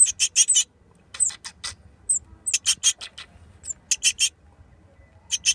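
Great tit nestlings near fledging calling: rapid, high-pitched chirps in short bouts of a few calls each, with brief pauses between bouts.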